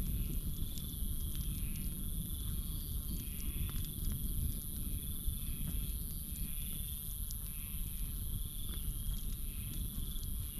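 Australian campfire burning with scattered small crackles over a steady low rumble. Behind it, insects keep up a steady high trill, and a chirp repeats a little under twice a second.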